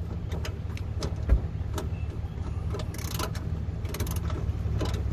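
Hand tools working on a car: irregular short clicks and knocks of metal, over a steady low hum.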